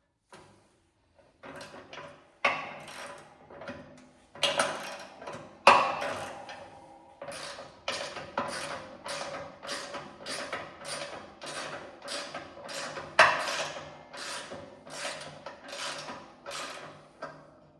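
Hand ratchet wrench working a bolt loose, clicking through its strokes about twice a second with a ringing metallic edge. A few sharper metal knocks come in the first seconds.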